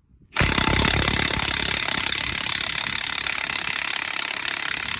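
Milwaukee M18 Fuel half-inch high-torque impact wrench hammering a truck wheel's lug nut loose, in one unbroken run starting about half a second in and lasting nearly five seconds. The nut was torqued to spec and has rust on its threads.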